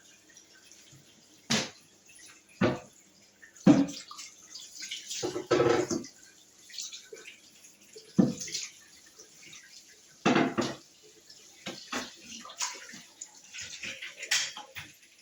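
Intermittent knocks and splashes of water, a dozen or so separate sounds with short pauses between them, the longest about halfway through.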